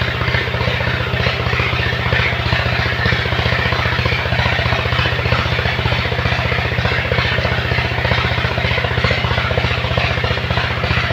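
Truck engine idling steadily, with a fast, even beat.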